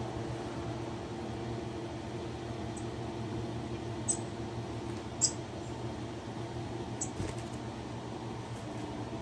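Four short, high, squeaky chirps of small birds, the loudest just past the middle, over a steady low mechanical hum; a soft knock about seven seconds in.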